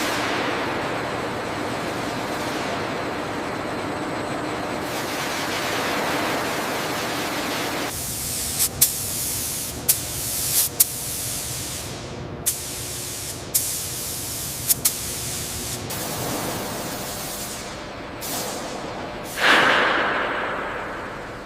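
High-pressure spray hissing steadily, turning sharper and higher about a third of the way in, with several sharp clicks in the middle. A louder rush swells near the end and fades.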